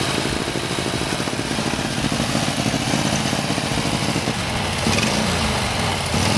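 JAP engine of a very old racing car running loudly at a fast idle with a rapid firing beat. About four seconds in, its revs dip and then rise again.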